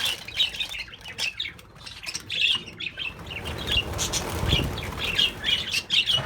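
A flock of budgerigars chirping and chattering in rapid, overlapping short calls, with a brief low rumble about two-thirds of the way through.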